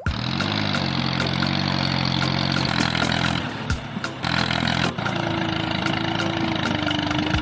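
An engine running steadily, with a brief break about three seconds in and a steady higher tone joining it about five seconds in.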